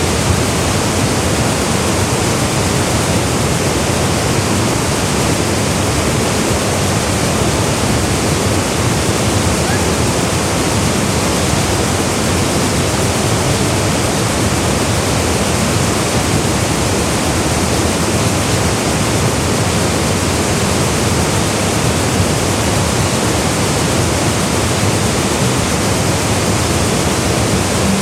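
Waterfall, a steady loud rush of falling water that does not change.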